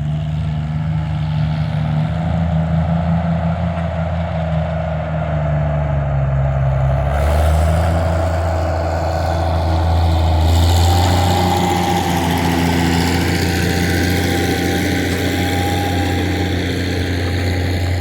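Farm tractor engine running steadily. About seven seconds in the engine note changes and grows stronger, and a rushing hiss joins it.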